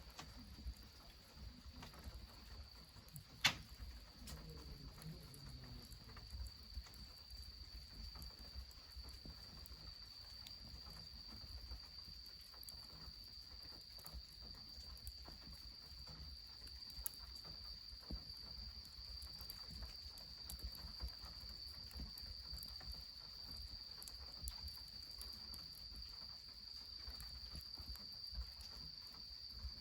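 Insects trilling steadily at one high pitch, over faint crackling of a wood fire. One sharp crack stands out about three and a half seconds in.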